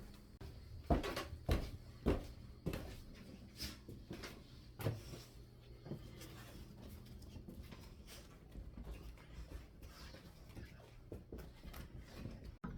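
A string of sharp knocks and bumps, several close together in the first few seconds and sparser after, over a steady low hum.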